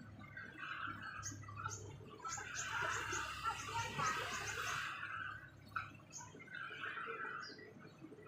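Small birds chirping and twittering in quick clusters of short notes, with sharp high-pitched falling chirps mixed in. A louder stretch of hissy noise lasts for about the middle three seconds.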